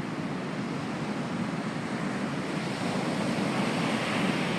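Pacific Ocean surf washing ashore: a steady rushing wash that grows slightly louder about halfway through.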